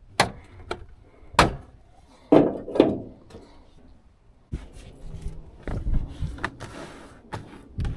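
A few sharp knocks and clunks, then from about halfway a stretch of rougher handling noise with thumps.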